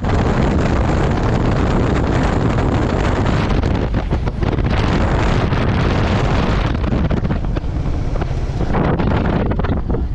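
Royal Enfield motorcycle running on the move, its engine rumble heavily mixed with wind buffeting the microphone.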